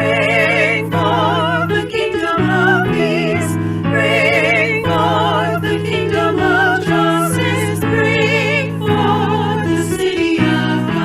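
Choral or hymn singing: voices with vibrato over sustained keyboard chords that change every second or so.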